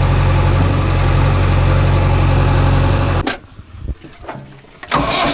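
Diesel engine idling steadily with a low, even beat. About three seconds in it cuts off abruptly, leaving a much quieter stretch with a few knocks, and the engine sound returns near the end.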